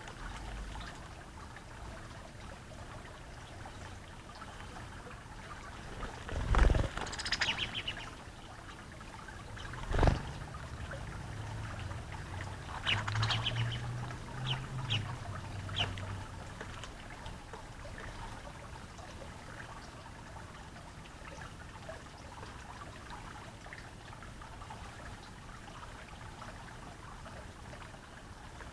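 Water trickling steadily, with a few short bird chirps about a quarter of the way in and again around the middle, and two dull thumps.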